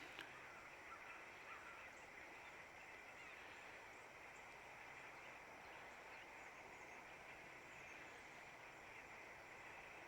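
Faint early-morning woodland ambience: a steady, even high hiss with a few faint, short, distant bird calls in the first couple of seconds.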